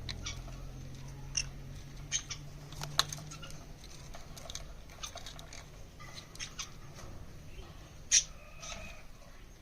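Pet pineapple conures making faint scattered clicks and a few short, high squeaks, the sharpest about three seconds and eight seconds in.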